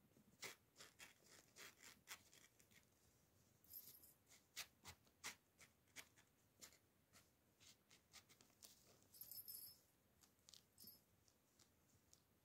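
Faint, scattered taps and clicks of kittens playing in a play tunnel, with two brief rustles, one about four seconds in and one about nine seconds in.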